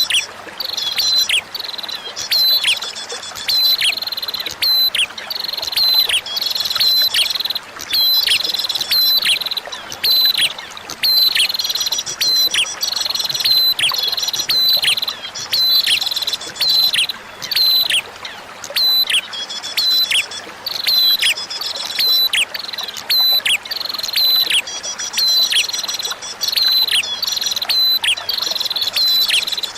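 Prinia (prenjak) singing: rapid series of sharp high chirps, each dropping quickly in pitch, delivered in phrases with short breaks, over a steady background of flowing water.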